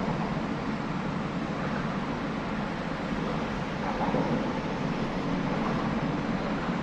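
Wind on the microphone outdoors, a steady rush with no distinct tones or knocks.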